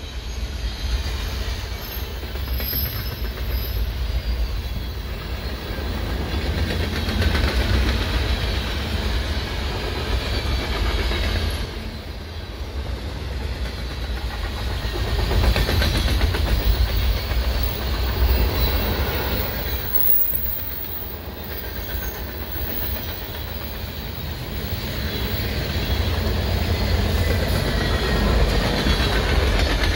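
Freight cars of a CSX manifest train rolling past: a steady rumble of steel wheels on rail that swells and eases in loudness, with a faint high wheel squeal at times.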